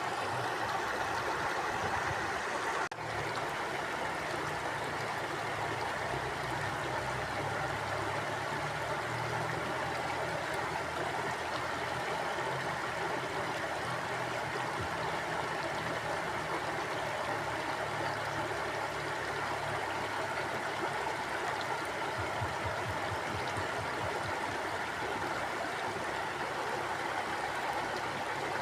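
Stream water flowing steadily, a continuous rushing sound with a low uneven rumble beneath, with a brief dip about three seconds in.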